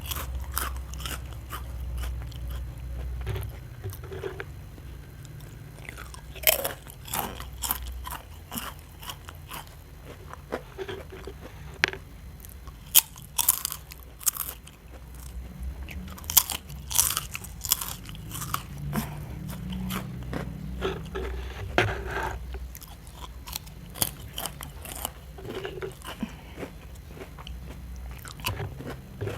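Close-up eating sounds: a crunchy snack bitten and chewed, with many sharp, irregular crunches between quieter chewing.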